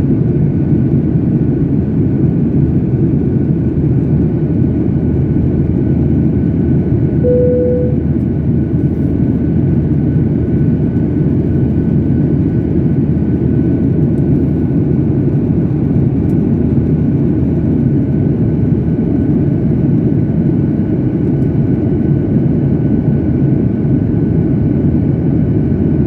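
Steady airliner cabin noise in flight: a loud, even rumble of the jet engines and airflow, with a faint constant whine. A short single tone sounds about seven seconds in.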